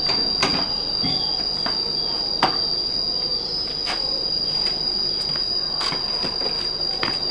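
A steady, high-pitched insect drone, with about six sharp clicks or snaps at irregular intervals over it.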